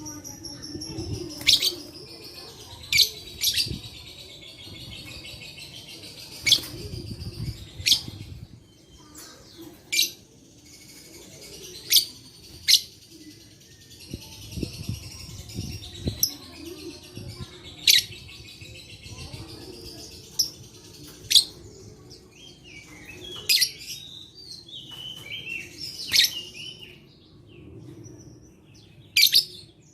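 Lovebird chattering in a continuous high twitter, broken every second or two by short, sharp, shrill calls.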